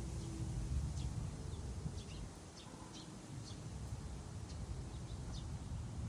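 Wind through trees, a gusty low rumble that eases in the middle and builds again near the end, with small birds giving scattered short, high chirps.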